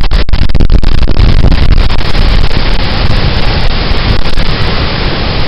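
Loud, steady roar of a large waterfall, with wind buffeting the microphone.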